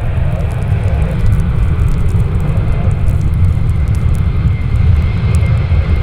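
Jet airliner's engines with a deep, steady rumble, and a faint high whine growing stronger about two thirds of the way through.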